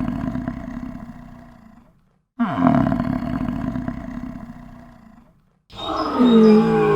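A large animal's loud, drawn-out call, heard twice with a short silence between. Each starts abruptly, drops in pitch and fades out over about two seconds. Near the end a different call begins, sliding down in pitch.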